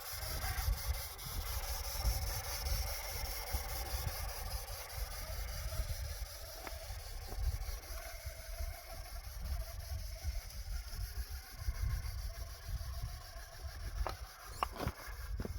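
Wind buffeting the microphone with a low, gusty rumble, over the faint whine of an electric RC rock crawler's motor and gears as it works over snowy rocks. A few sharp clicks come near the end.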